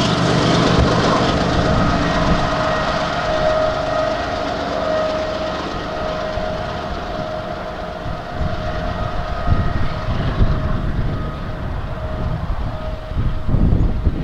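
Double-stack intermodal freight train led by a Canadian Pacific GE ES44AC diesel locomotive approaching on the rails: steady running of the engine and wheels, with a high held tone that keeps breaking off and coming back, and the low rumble growing heavier in the last few seconds as the locomotive draws near.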